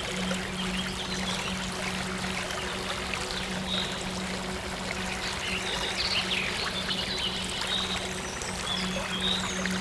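Steady rush of flowing stream water, with short bird chirps now and then over a soft, steady low synth drone.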